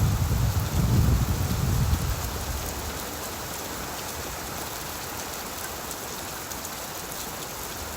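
Steady rain falling on leaves, an even hiss. A low rumble of distant thunder dies away over the first two seconds.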